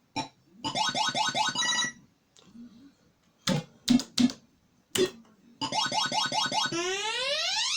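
Cashcade coin-pusher arcade machine playing its electronic sound effects: fast runs of beeping tones, a few sharp clicks in the middle, then more beeping and a rising sweep near the end.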